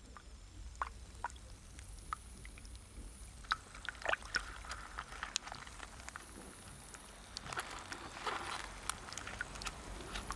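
Faint pond water sounds: gentle trickling and bubbling, with many small scattered clicks and drips.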